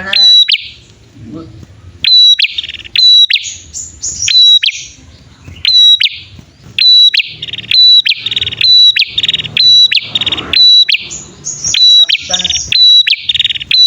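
Prenjak (prinia) male and female calling together: rapid, loud, sharp high chirps repeated in quick series, mixed with fast buzzy trilled phrases, in bursts about a second or two apart. This is the kind of call used as a lure to draw wild prenjak and to get caged birds singing.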